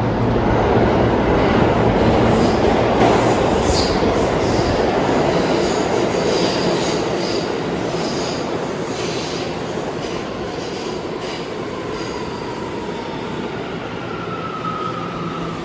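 New York City subway train pulling into the station: a loud rumble of wheels on rail with high-pitched wheel squeal. Near the end, a whine falls slowly in pitch as the train slows.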